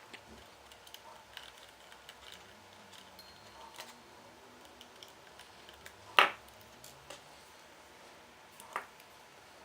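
Small clicks and taps of tools and parts being handled while a laptop is taken apart, with one sharp click about six seconds in and a smaller one near the end.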